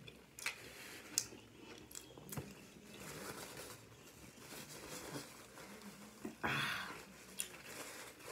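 A person chewing and biting a bacon cheeseburger and french fries, close to the microphone, with sharp crunches and wet mouth clicks. A louder rush of noise lasts about half a second, about six and a half seconds in.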